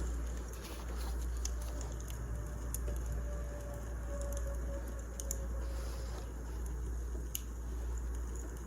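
Wood fire burning in a fireplace: a steady low rumble of flame with scattered sharp crackles and pops from the burning logs, and a faint thin hiss from the wood near the middle.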